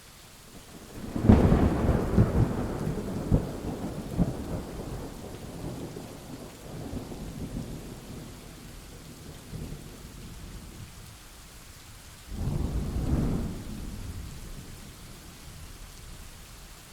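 Thunder: a loud crackling clap about a second in that rolls and rumbles away over several seconds, then a second, shorter rumble near the end, over a faint steady hiss.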